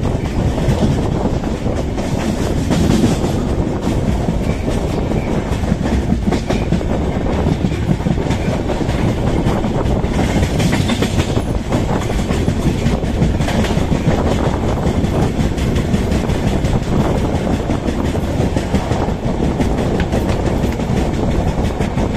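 Indian Railways passenger coach of a superfast express running on the track, a steady loud rumble of the wheels on the rails, heard from the coach's open door.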